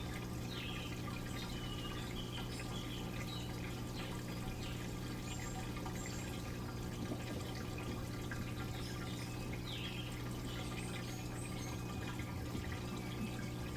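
Water running and splashing inside a Midea Wave-Agitator top-load washing machine during its wash cycle, over a steady low hum. It goes on evenly, with no pauses.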